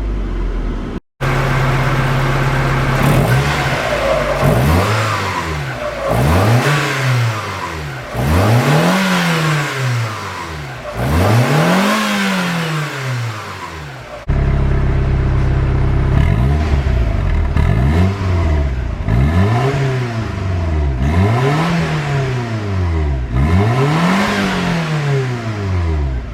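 Mazda Roadster's four-cylinder engine, breathing through a Maxim aftermarket exhaust manifold and the stock muffler, blipped again and again from idle. Each rev rises and falls back within about two seconds, about ten in all. There is a brief dropout about a second in and an abrupt break about halfway through.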